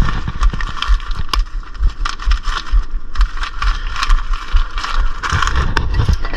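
Small metal brake parts being handled, with scattered light clicks and scrapes, over a heavy, uneven wind rumble on the microphone.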